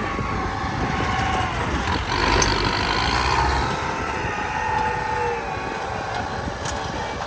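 Truck engine running steadily, its pitch drifting slowly up and down, a little louder a couple of seconds in.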